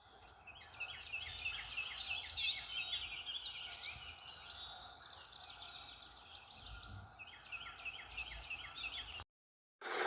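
Several small birds chirping, with quick repeated notes that overlap, busiest in the first half. It cuts off suddenly shortly before the end, and a loud small motor starts up just at the end.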